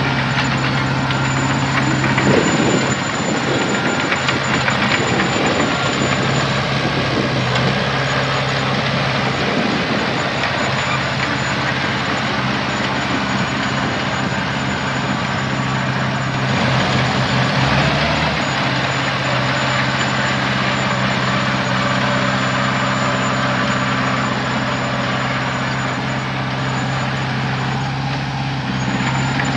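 Heavy diesel engine of earthmoving machinery running steadily, working harder for a couple of seconds about two seconds in and again past the middle.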